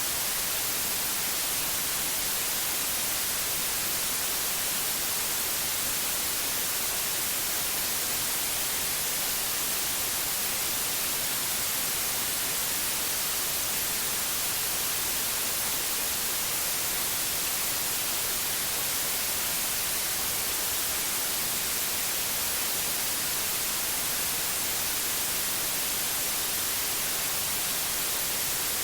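Steady synthetic white noise: an even, unchanging hiss spread across the whole range, brightest in the highs.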